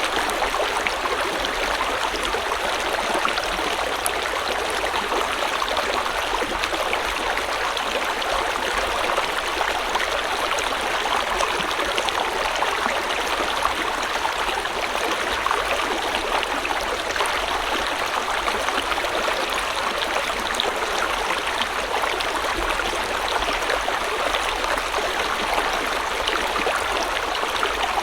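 River water flowing steadily over stones in a continuous even rush, with fine gurgling and trickling detail.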